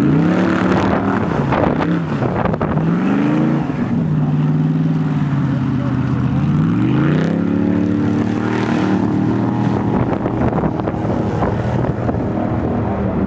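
Airboat's engine and propeller running, its pitch rising and falling again and again as the throttle is opened and eased: up near the start, down about a second in, up again around three seconds, then held steady before another rise about seven seconds in.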